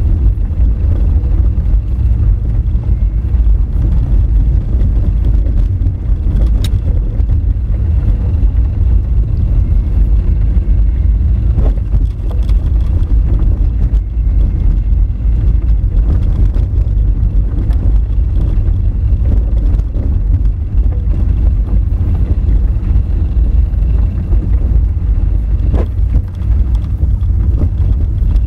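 Honda Fit driving on a dirt forest road: a steady low rumble of tyres and running gear, with a few sharp clicks or knocks, at about six, twelve and twenty-six seconds in.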